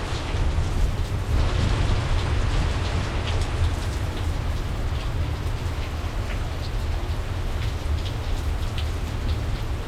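Steady heavy rain from a thunderstorm, with individual drops splashing close by, over a continuous low rumble of distant thunder.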